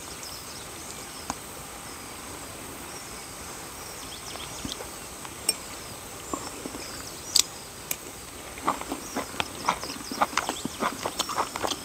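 Insects droning steadily, with scattered sharp clicks and taps that grow dense in the last few seconds.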